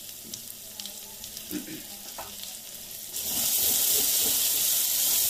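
Onion and ground masala paste frying in ghee in a pan: a faint sizzle with a few light clicks, then about three seconds in an abrupt jump to a loud, steady sizzle.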